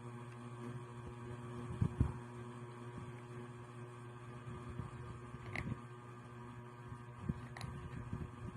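Steady low electrical hum, with a couple of soft knocks about two seconds in and two faint clicks later on.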